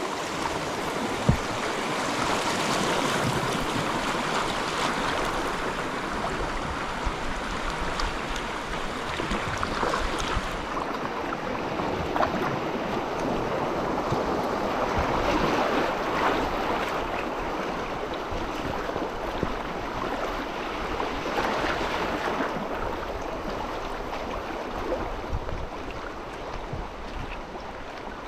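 Flowing river water: a steady rushing wash that swells and eases every few seconds.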